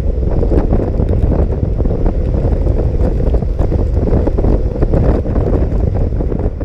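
Wind buffeting the microphone of a camera on a moving scooter: a loud, steady, deep rush with no clear engine note.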